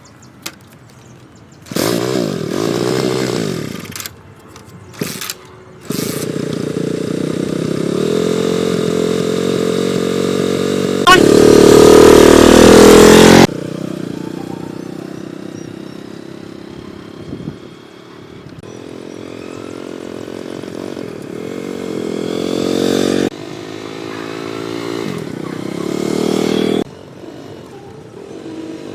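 1980 Honda motorcycle engine running and being revved up and down, cutting in and out abruptly several times, with its loudest rev about halfway through.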